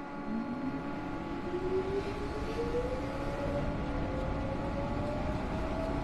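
Seoul Metro Line 2 electric train pulling away: the traction motor whine rises steadily in pitch as the train gathers speed, over a steady hum and growing rumble.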